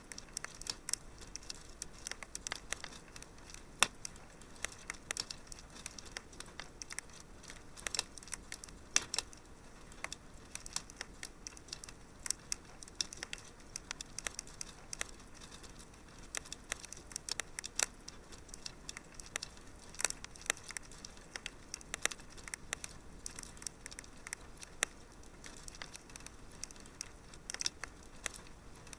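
Wood fire crackling in a fireplace: a steady run of irregular snaps and pops over a soft hiss, with a sharper pop about four seconds in.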